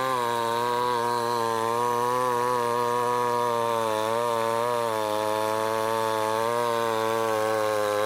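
Stihl MS 881, a large two-stroke chainsaw, running at high revs while sawing through a big log, its pitch wavering slightly as it cuts. The saw is loud.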